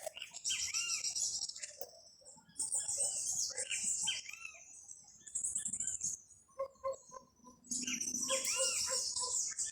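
Several songbirds singing together: one repeats a high buzzy phrase with looping notes three times, near the start, around three seconds in and near the end, while another gives quick, evenly spaced lower notes.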